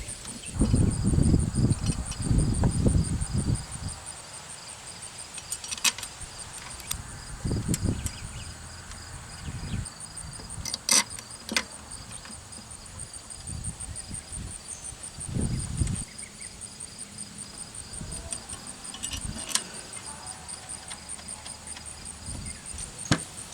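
Insects trill steadily in a high, evenly pulsed note throughout. Over them come clunks and sharp metallic clicks of parts and tools being handled on the engine, the loudest a run of clunks in the first few seconds.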